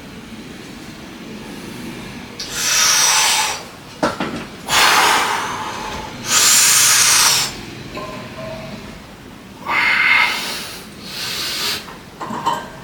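A person breathing hard through the mouth during weight training, five forceful breaths of about a second each, with a few short clicks or knocks between them.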